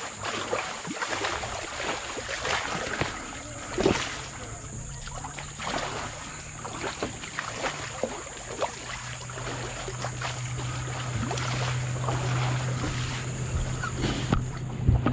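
Kayak being paddled: irregular paddle dips and splashes with scattered knocks against the hull. A steady low hum grows stronger in the second half.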